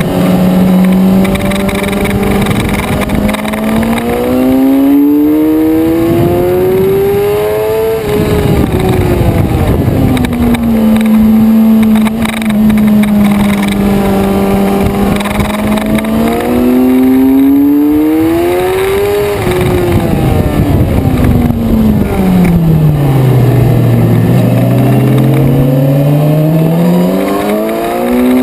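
Suzuki sport motorcycle engine heard from onboard at track speed, its pitch climbing as it accelerates and falling as it slows for corners. The note rises for the first third, drops back sharply, climbs again past the middle, then sinks to its lowest for a slow corner near the end before rising once more.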